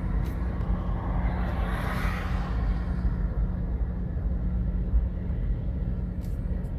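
Road noise inside a moving car: a steady low rumble of tyres and engine, with a higher hiss that swells and fades out about three seconds in.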